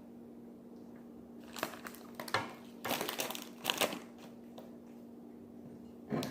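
Crinkling and crunching of food packaging being handled, in a few short bouts between about one and a half and four seconds in and again near the end, over a steady low hum.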